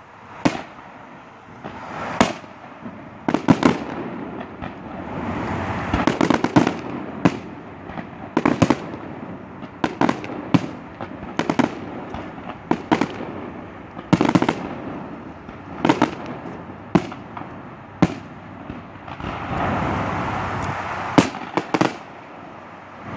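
Aerial fireworks shells bursting overhead in quick succession, a sharp bang about every second. There are busier, more continuous stretches about six seconds in and again near the end.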